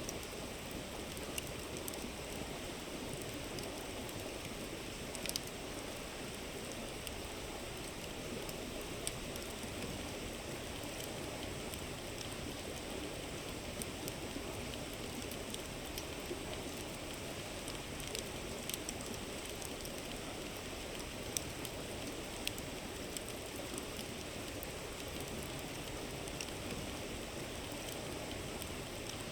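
River flowing steadily over rocks, with a wood campfire crackling in scattered sharp pops.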